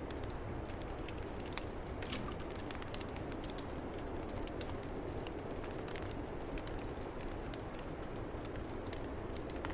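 Wood fire crackling in a fireplace, with scattered sharp pops and ticks, over a steady rush of snowstorm wind.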